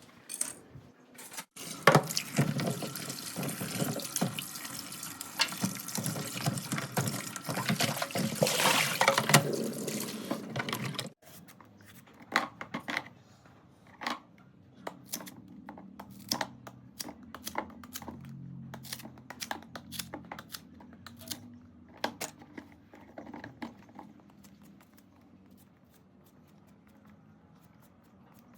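Water pouring and splashing steadily for about nine seconds, then cutting off suddenly, followed by scattered light clicks and knocks.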